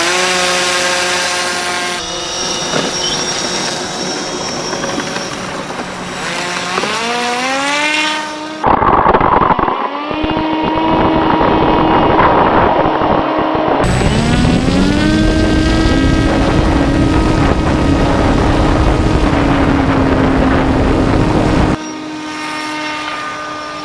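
Electric motor and propeller of a radio-controlled car rigged as a plane, whining and rising in pitch as it is throttled up, then holding a steady high whine. The sound cuts abruptly several times, changing in loudness and tone.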